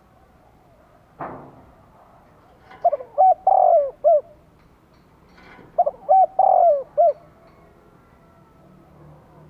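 Spotted dove singing: two matching cooing phrases of four notes each, about three seconds apart. A short noise is heard about a second in, before the first phrase.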